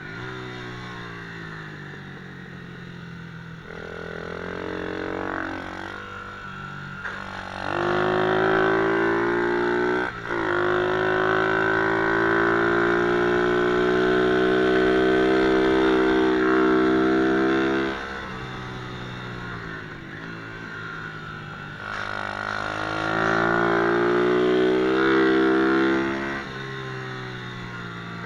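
MRF 120cc pit bike's single-cylinder engine revving up and down as the bike is ridden around the track. It runs at high revs in a long pull from about eight seconds in to about eighteen, with a brief dip near ten seconds, and again in a shorter pull a few seconds later. In between it drops back to low revs.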